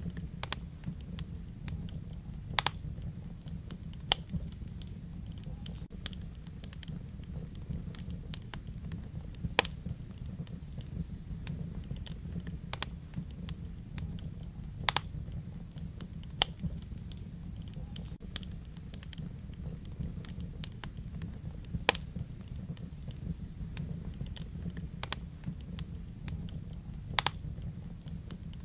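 Wood fire in a fireplace crackling: irregular sharp clicks and a handful of louder pops over a steady low rumble.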